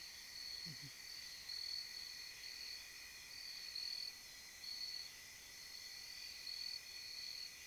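Crickets chirping in a steady rhythm, about two chirps a second, over a constant high insect drone.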